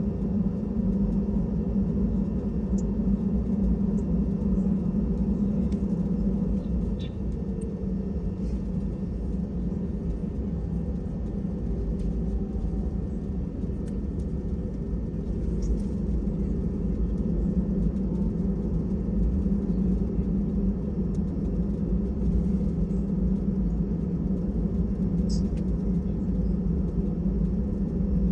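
Steady low rumble of an Airbus A320 heard from inside the cabin, its engines running, with a few faint clicks.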